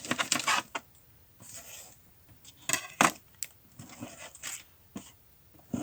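A poor, blunt knife cutting up potatoes and onion: a quick run of clicks at the start, then a short rasp, then several sharp knocks about three seconds in, with lighter clicks after.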